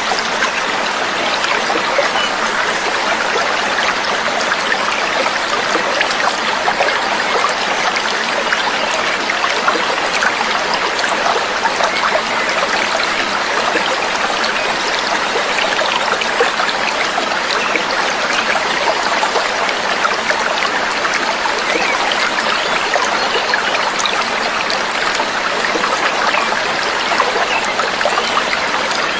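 Babbling, trickling stream water running steadily, with no breaks.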